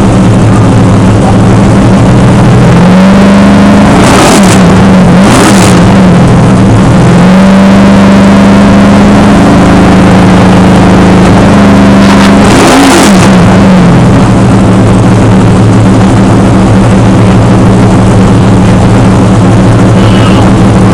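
NASCAR stock car's V8 engine running very loud and steady while it warms up after a cold start, its pitch stepping up and down with the throttle. It gives a few short, sharp revs: two close together in the first half and one more later on.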